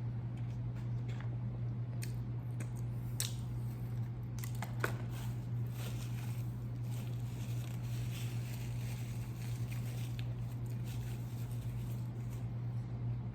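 Close-miked chewing and wet mouth sounds of someone eating fried chicken and sides, with small clicks and crunches, over a steady low hum.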